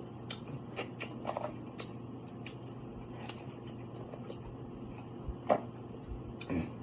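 Close-miked eating sounds: scattered wet smacks and clicks of someone chewing seafood, with a louder mouth sound about five and a half seconds in, over a faint steady hum.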